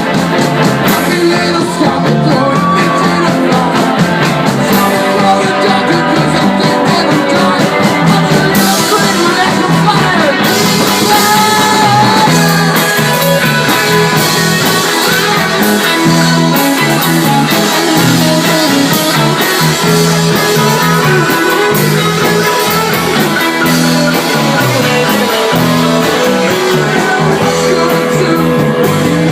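Live rock band playing a song at full volume: a steady drum beat under guitar, with a sung vocal line.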